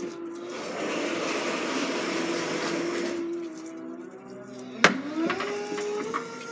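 A motor running with a steady whine. A rushing hiss lasts for about two and a half seconds near the start. Then comes a sharp click, and the whine rises in pitch.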